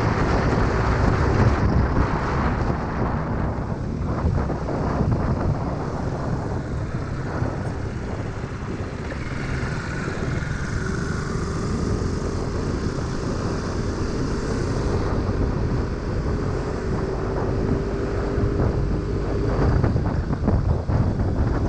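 Wind rushing over the microphone while riding a motor scooter at speed, with the engine's steady drone underneath. A faint engine tone holds steady through the second half.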